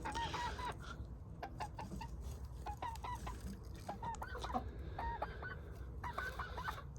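A bantam hen making soft, short chirping clucks, repeated every second or so; the contented chatter of a tame hen being held and petted.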